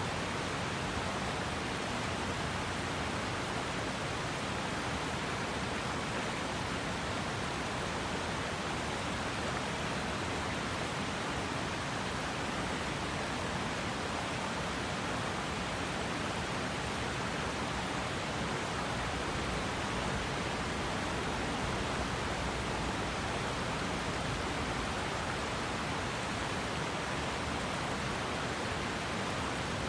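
River water rushing steadily over its bed, an even, unbroken rush.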